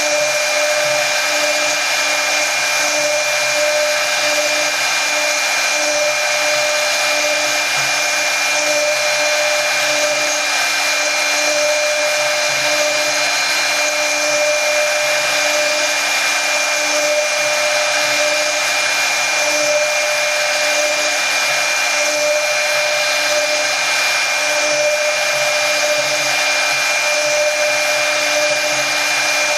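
Brushless CNC spindle running at high speed while cutting wood: a steady high whine over continuous cutting noise, with no change in speed or load.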